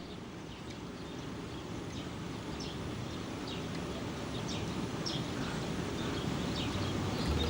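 Outdoor ambience: a steady low rumble that slowly grows louder, with short bird chirps scattered through it.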